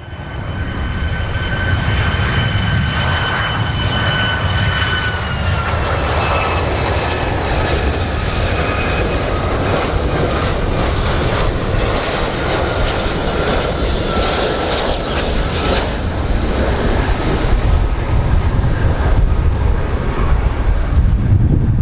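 Large airplane's engines running loudly in a dense rumble, with a steady high whine that drops slightly in pitch about five seconds in. The sound rises out of silence at the very start.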